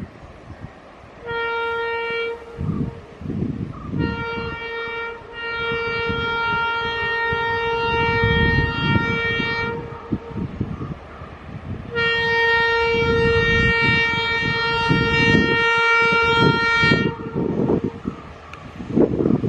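Diesel freight locomotive's air horn sounding one steady note: a short blast, then two long blasts of several seconds each. These ride over the rising rumble of the approaching freight train.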